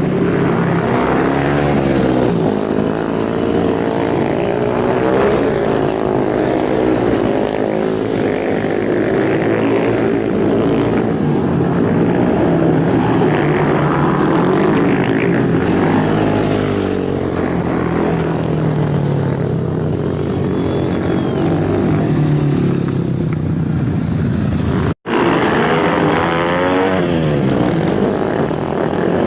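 Motorcycle engines running hard, their pitch rising and falling as bikes rev, shift and sweep past. The sound cuts out briefly near the end.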